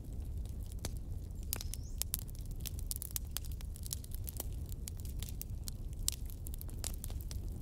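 Wood fire burning, with irregular sharp crackles and pops several times a second over a low steady rumble.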